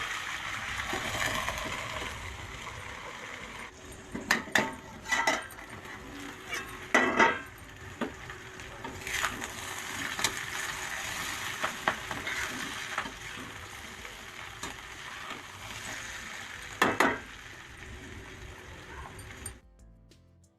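Potatoes and peas sizzling in an iron kadai, with a spatula clinking and scraping against the pan several times as the food is stirred. The sound cuts off suddenly near the end.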